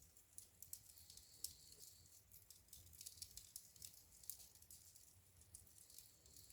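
Faint wood fire crackling in a fireplace: a constant scatter of small, sharp snaps and pops, a few a bit louder than the rest, over a soft low rumble of the flames.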